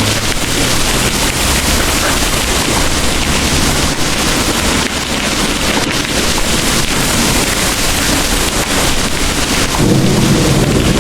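Heavy rain pouring in a steady hiss, with a low rumble of distant thunder swelling near the end.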